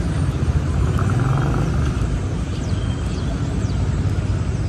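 City street traffic: a steady low rumble of cars and other vehicles passing along a busy avenue.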